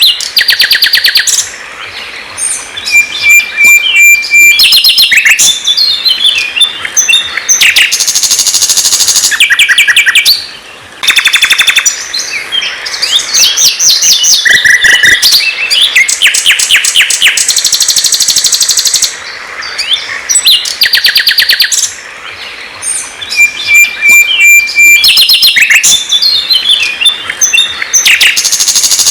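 Loud songbird song: rapid high trills, chattering notes and short whistled phrases, with a held whistle about three seconds in and again near the end. The same passage repeats about every 20 seconds, as a looped song recording.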